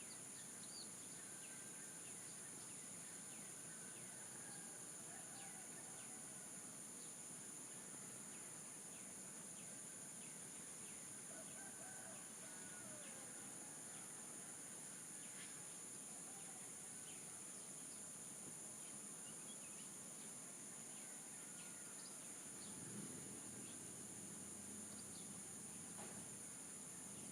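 Faint, steady high insect drone of crickets with scattered short bird chirps throughout. About 23 seconds in, a rooster's crow begins.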